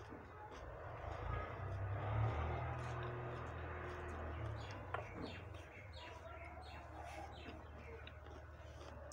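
Birds chirping, with a low rumble that swells over the first couple of seconds and dies away about halfway through.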